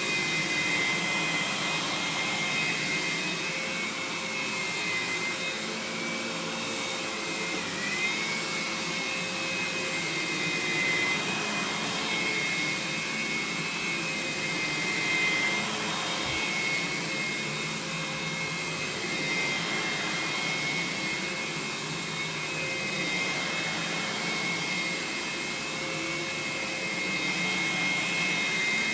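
Aerus Lux Guardian upright vacuum cleaner running steadily, its motor noise carrying a high whine that wavers slightly in pitch.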